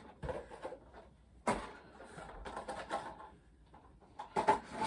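Plastic toy packaging being handled as an action-figure accessory is pulled free: irregular crinkling and sharp plastic clicks, with a sharp click about a second and a half in and a louder bunch of clicks near the end.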